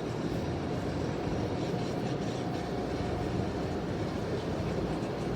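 Automatic tunnel car wash running around the car, heard from inside the cabin: a steady, dense rush and rumble of spraying water and wash machinery.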